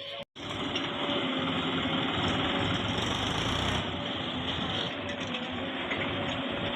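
Diesel engine of heavy earthmoving machinery running steadily. The sound cuts out for an instant just after the start, then carries on.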